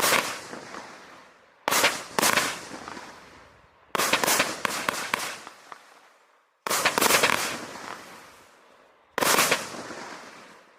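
Vivid Pyrotechnics Havoc firework going off in volleys of sharp bangs: a burst about every two seconds, some coming as quick doubles or rapid clusters, each trailing off over a second or two.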